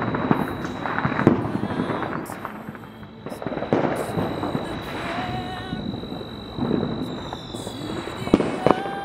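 Consumer fireworks going off: scattered booms with crackling between them. Near the end come sharp cracks as a fireworks cake starts firing its shots.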